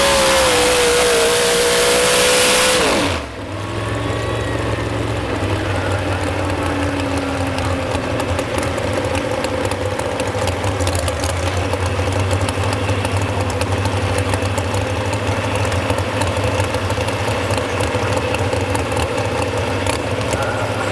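Modified 4x4 pulling truck's engine at full throttle, loud with a high hiss and its pitch sagging under load, cuts off suddenly about three seconds in: the end of a pull. After that the engine idles with a steady low rumble.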